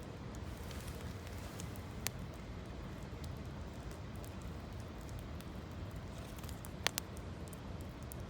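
Campfire of gathered branches crackling, with scattered small ticks and sharp pops, the loudest two in quick succession near the end, over a steady low rush.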